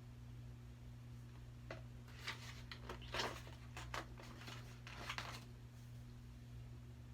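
Paper rustling and light handling noises from the pages of a picture book being turned, a quick cluster of rustles and clicks in the middle, over a steady low hum.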